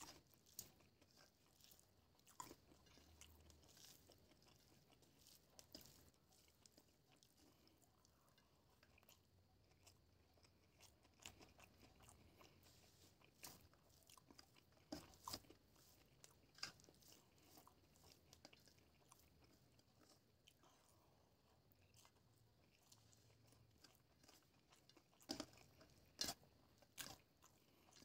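Close-up eating sounds of rice and fried okra eaten by hand: quiet chewing with scattered sharp crunches and clicks, several coming close together near the end.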